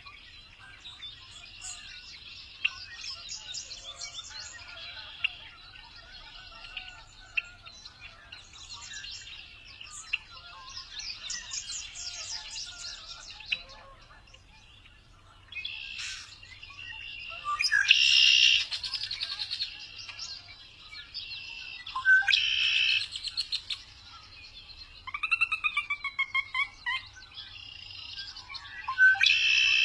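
Several birds chirping and singing, with many short high calls and trills. Louder harsh calls come around 18 seconds, 22 seconds and at the end, and a quick run of repeated gliding notes comes a little after 25 seconds.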